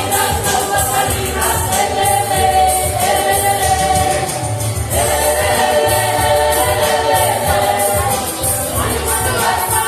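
A choir singing with a steady beat from accompanying instruments, in a gospel style.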